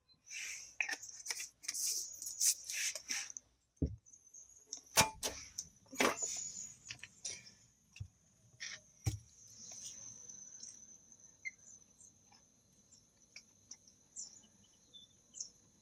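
Several sharp knocks and clatters, the loudest about five and six seconds in, after a few seconds of hissy rustling. A steady high-pitched chirring sets in about four seconds in and carries on under them.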